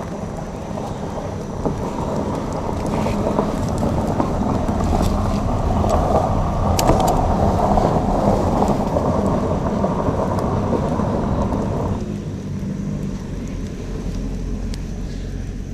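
Campfire crackling, with a few sharp pops over a deep rumbling noise that swells and then cuts off suddenly near the end.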